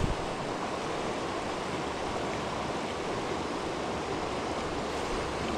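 Creek water rushing steadily over rocks, with one brief tap right at the start.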